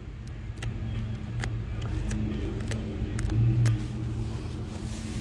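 A motor vehicle's engine running with a low rumble that swells to its loudest about three and a half seconds in, with scattered light clicks over it.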